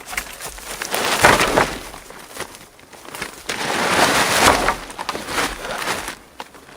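Dry brush and wood crunching and snapping, in two loud swells about one and four seconds in.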